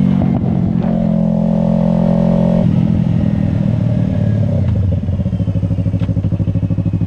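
Yamaha R3 parallel-twin engine through an M4 Street Slayer aftermarket exhaust, running at steady revs. About two and a half seconds in the revs drop suddenly, and the engine runs on lower and uneven with a quick pulsing beat.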